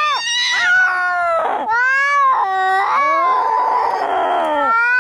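Cats yowling in a fight: a string of drawn-out yowls that rise and fall in pitch, with a harsher, raspy yowl from about three seconds in until nearly the end.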